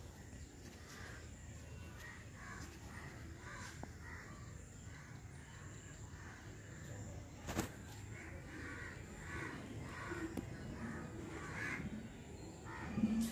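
Birds calling repeatedly in the background, the calls coming more often in the second half, with one sharp click about seven and a half seconds in.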